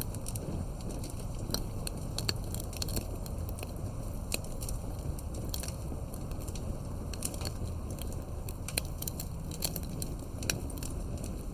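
Wood fire burning steadily, with many sharp, irregular pops and crackles over a low, steady rumble of the flames.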